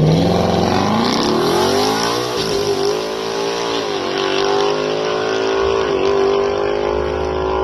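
Twin-turbo 5.0 Coyote V8 of a 2020 Mustang GT launching from a held rpm and accelerating hard down the drag strip on a quarter-mile pass. Its pitch climbs, dips back at each upshift about 2, 4 and 6 seconds in, and climbs again.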